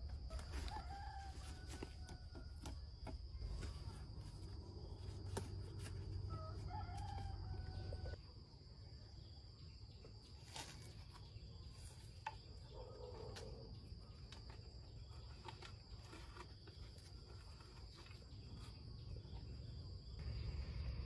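A bird calling: two drawn-out calls rising and falling in pitch, about six seconds apart, and a fainter one later, over a steady high insect-like drone. A low rumble underneath stops abruptly about eight seconds in.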